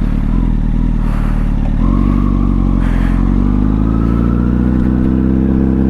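Honda Fireblade's inline-four engine running steadily, then from about two seconds in rising slowly and evenly in pitch as the motorcycle pulls away and gathers speed.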